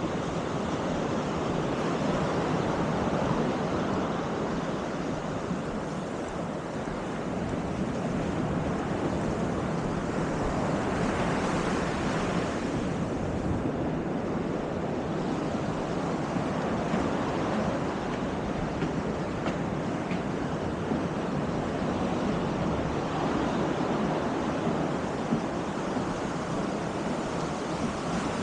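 Baltic Sea surf washing steadily onto the beach, with one wave breaking brighter and louder about eleven seconds in. Some wind on the microphone.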